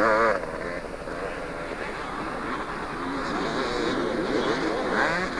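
Two-stroke motocross bike engines revving, the pitch swinging up and down as the bikes race over the track. Loudest at the start and dropping away within a fraction of a second, with bikes further off in the middle and a louder one closing in near the end.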